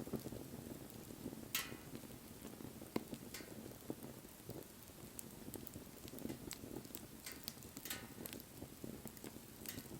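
Wood fire burning: a low rushing of flame under scattered crackles and sharp pops, the loudest pops about one and a half seconds in and near eight seconds.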